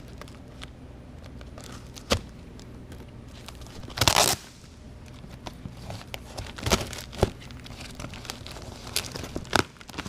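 Spyderco Stretch folding knife cutting into a cardboard shipping box: scattered clicks and scrapes of the blade and cardboard, with one louder half-second rip about four seconds in.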